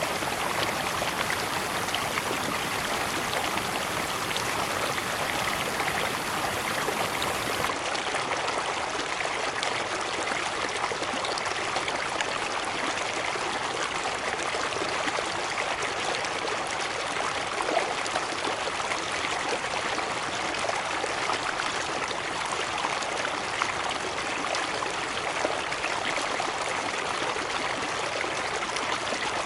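Waterfall water rushing and splashing steadily, an even hiss of falling and flowing water. The low rumble thins about eight seconds in.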